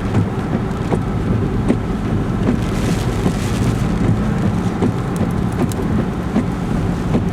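Car interior while driving: steady engine and road rumble, with scattered ticks of rain on the car.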